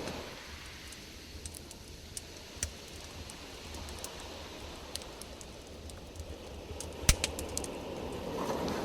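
Campfire crackling: scattered sharp pops and snaps of burning wood over a low rumble, with one louder crack about seven seconds in.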